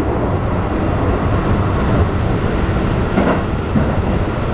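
Keikyu New 1000 series electric train with a Toyo IGBT-VVVF inverter, running and heard from inside the passenger car: a steady rumble of wheels and running gear.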